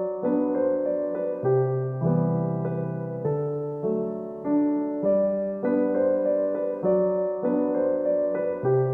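Background music: a slow, gentle piano piece with sustained chords changing every second or so.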